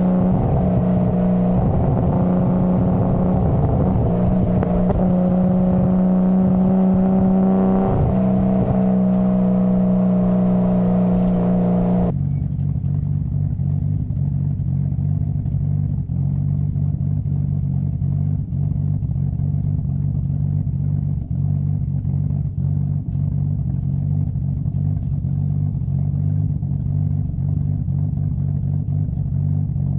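Nissan Skyline GT-R's RB26DETT twin-turbo straight-six engine and exhaust running at a steady raised engine speed, then, about twelve seconds in, dropping abruptly to a lower, steady idle.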